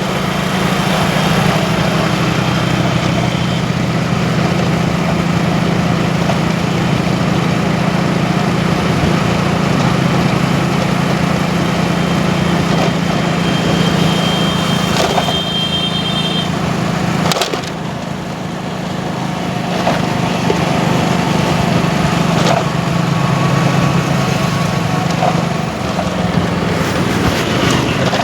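Motorcycle engine running steadily while riding through city traffic, over a constant rush of wind and road noise. A little past halfway the engine note drops off briefly, then picks up again.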